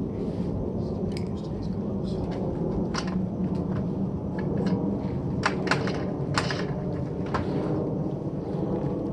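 Scattered sharp clicks and light knocks of plastic and metal parts being handled and pried apart while an appliance is taken apart for scrap, a cluster of them around the middle, over a steady low rumble.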